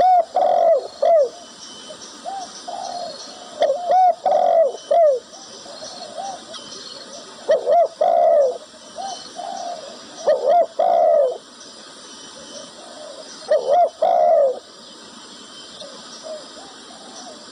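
Zebra dove (perkutut) cooing: short phrases of several quick curved notes, repeated every few seconds.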